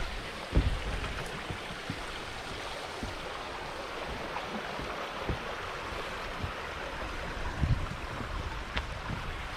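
Creek water flowing steadily, with a few low thumps on the microphone, the loudest about half a second in and another pair near the end.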